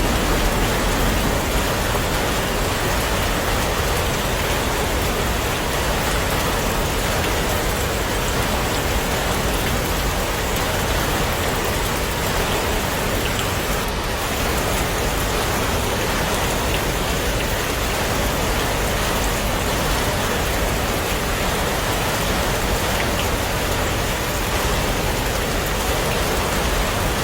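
Heavy rain falling steadily: an even, unbroken hiss of drops on surfaces.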